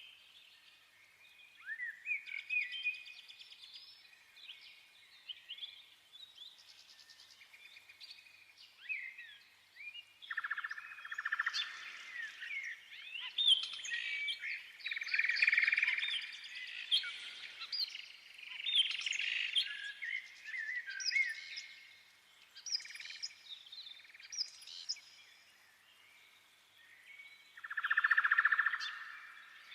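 Birds chirping and singing, many short rising and falling calls overlapping, growing busier and louder from about ten seconds in.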